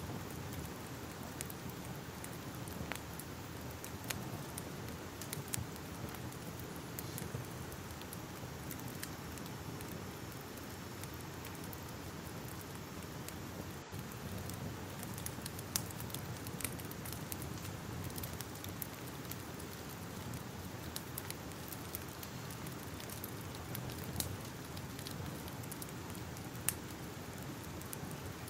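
Crackling fire: a steady hiss with frequent, irregular sharp pops and crackles.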